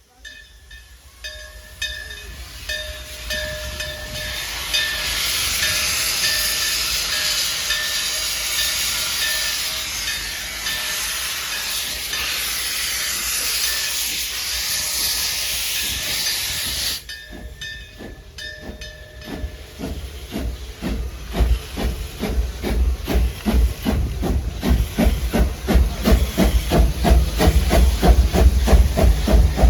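Steam locomotive letting off steam in a loud, steady hiss for about sixteen seconds, which cuts off suddenly. Its exhaust chuffs then begin in an even beat and grow louder.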